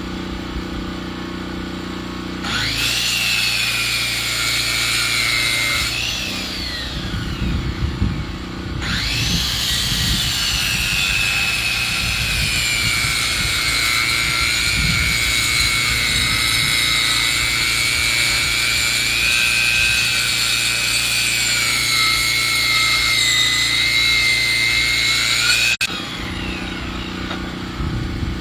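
Sawmill sawing lumber from a log. An engine hums steadily, then the saw cuts with a high whine that sags in pitch under load: a short cut of a few seconds, then a long cut of about seventeen seconds. The whine stops suddenly near the end, leaving the engine hum.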